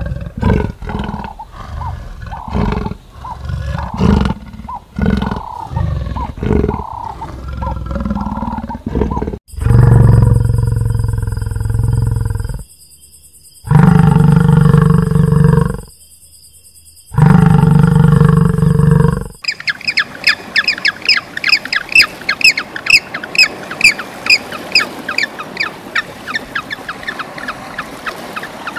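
First a quick run of short animal calls. Then three long, deep bellows from American bison, each two to three seconds, with short pauses between them. Then rapid high calls, several a second, from a group of African penguins.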